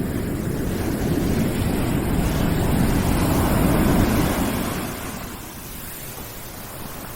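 Steady rushing background noise, heavy in the low end, that swells and then eases off to a lighter, even hiss about five seconds in.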